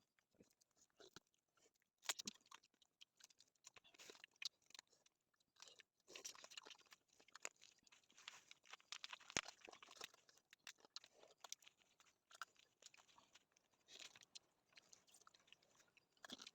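Faint, irregular crunching and chewing, someone eating, with scattered small clicks and crackles.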